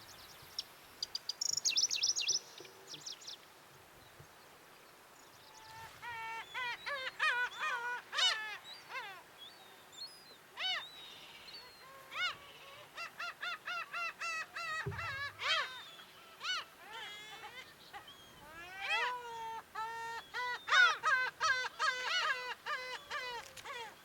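Birds calling outdoors: a short burst of high, rapid chirps about a second in, then from about six seconds on a long series of louder, harsh pitched calls repeated in quick runs, as from several larger birds such as gulls.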